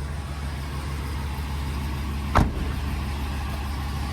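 2016 Ford E350 box truck's engine idling steadily with a low, even hum, and a single sharp knock about two and a half seconds in.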